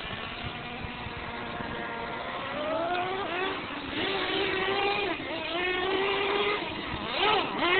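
Radio-controlled monster truck's motor whining, its pitch rising and falling repeatedly as the throttle is worked, getting louder near the end.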